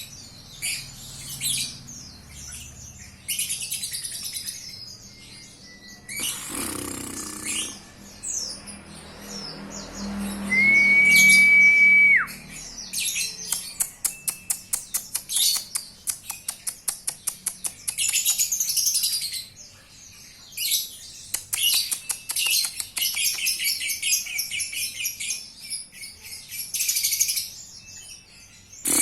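Caged lovebirds chirping and twittering in fast, high, chattering runs that go on almost without pause. A brief steady whistle-like tone about ten seconds in is the loudest moment.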